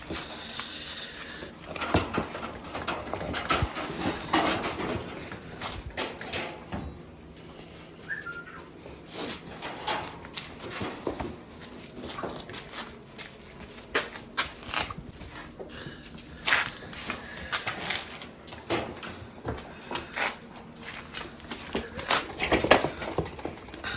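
Dogs and a lion cub scuffling together at play: irregular knocks, scrapes and thumps, with occasional animal sounds.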